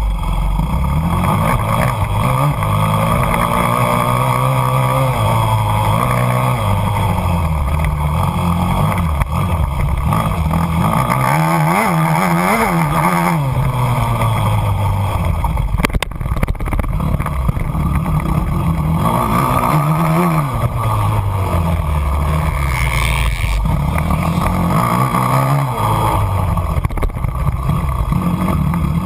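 An engine running, its pitch rising and falling repeatedly as its speed changes.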